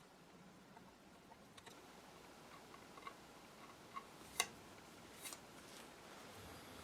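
Near silence: room tone with a few faint, short clicks and taps, the clearest about four seconds in.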